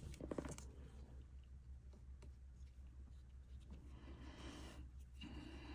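Faint rustling and light clicks of a crochet hook pulling yarn through stitches, over a steady low electrical hum.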